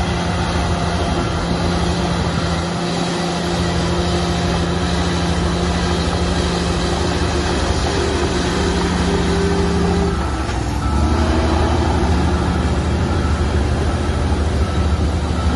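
Heavy diesel engine of earthmoving machinery running steadily under work. About two-thirds of the way through, its note drops and shifts as the load changes.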